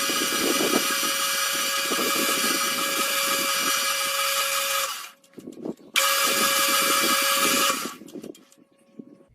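Lathe running with a steady whine and hiss. It cuts off about five seconds in, starts again a second later, and stops near the end.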